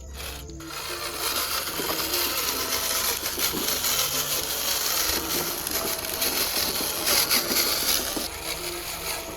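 Steady rough scraping, sawing-like noise of hand-tool work on material, continuing throughout with small irregular strokes.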